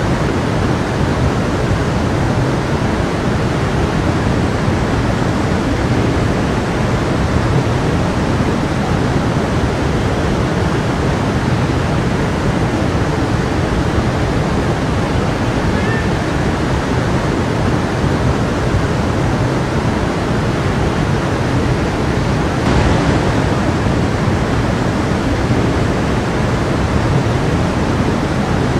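A small stream of running water, a steady, even rushing flow.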